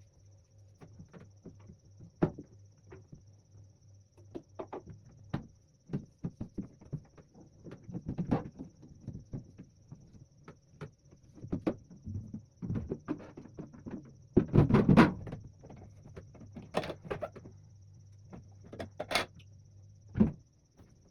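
Irregular knocks, clicks and rattles of things being handled and set down, with door- or cupboard-like bumps. The loudest stretch is a short scraping rustle about two-thirds of the way in, followed by two sharp knocks. A steady low hum runs underneath.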